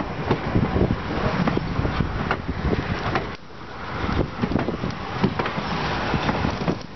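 Wooden passenger coaches rolling past close by, a steady rumble of wheels on the rails with irregular clacks, the sound dipping briefly about halfway through. Wind buffets the microphone.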